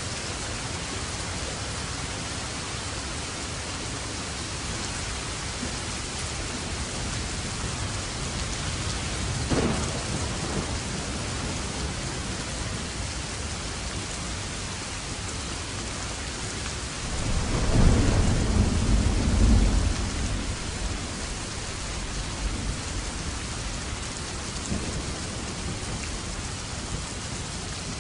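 Steady heavy rain with thunder: a short crack about ten seconds in, then a louder, deep rolling rumble lasting a few seconds past the middle.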